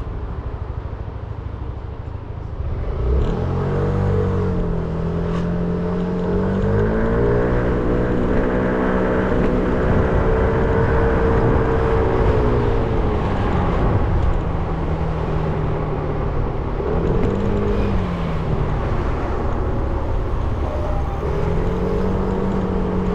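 300cc motorcycle engine riding through traffic. About three seconds in it pulls away, and its pitch then rises and falls with the throttle and gear changes several times, over a low road rumble.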